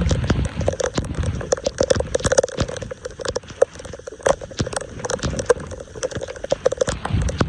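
Floodwater gurgling and splashing at a storm drain, with many irregular wet clicks and knocks from debris being handled.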